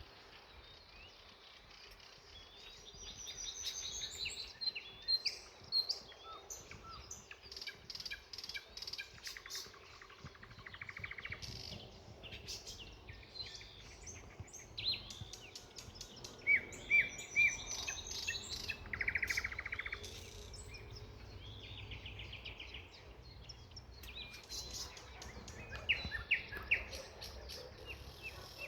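Several songbirds singing and calling together, a mix of short chirps and quick buzzy trills, over a low steady background rumble.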